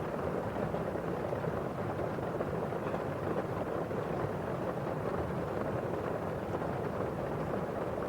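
Steady rain falling on a windowpane and outside, heard as a dense, even hiss with no separate drops standing out.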